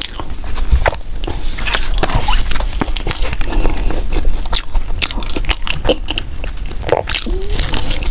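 Close-miked eating: a person biting and chewing food, a dense run of small crunchy, crackling clicks throughout.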